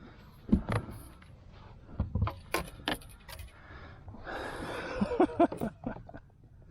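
A landing net and other gear being handled on a plastic kayak: a string of sharp knocks and clicks, then a rustling hiss about four seconds in, followed by a few short squeaks and knocks.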